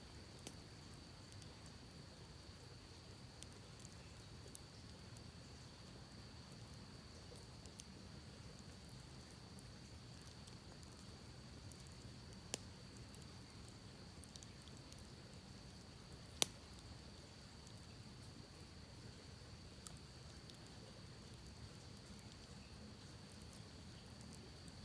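Campfire wood crackling faintly, with scattered small pops and one sharp, much louder pop about two-thirds of the way through. A faint steady high-pitched tone runs underneath.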